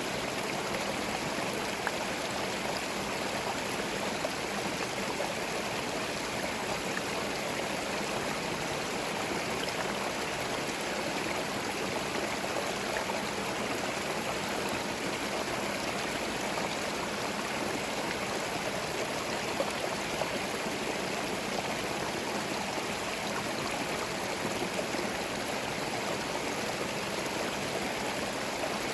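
Small forest stream flowing, a steady rush and burble of water over stones.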